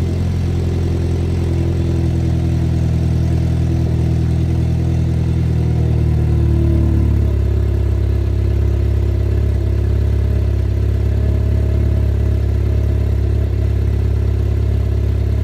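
Mini John Cooper Works F56's turbocharged four-cylinder engine idling steadily just after a cold start. About seven seconds in the engine note drops and settles lower, as the raised cold-start idle comes down.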